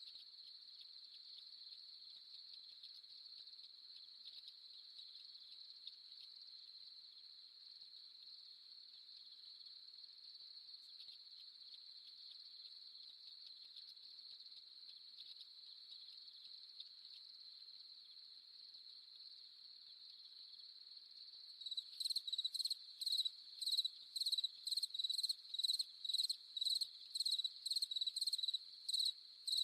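Crickets with a steady, high-pitched, even trill. About three quarters of the way through, a louder cricket starts chirping in regular pulses, two to three a second.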